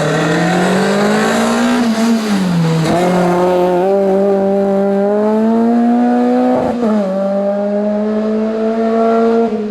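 Rally car engine running hard under load on a mountain stage, its pitch climbing, dropping back about two seconds in and again briefly near seven seconds as it changes gear.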